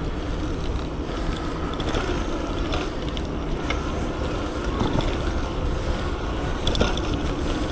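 Steady rumble of wind on the microphone and road noise while riding an electric bike, with a few faint clicks.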